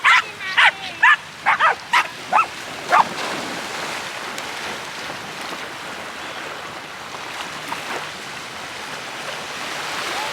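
A dog gives about nine quick, high-pitched yelping barks over the first three seconds, then stops. A steady wash of sea surf continues for the rest of the time.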